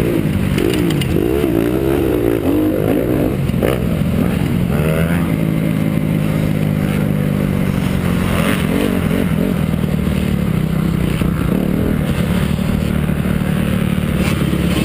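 Honda CRF250 four-stroke single-cylinder motocross engine revving up and down quickly for the first few seconds, then running at a steadier pitch with smaller rises and falls.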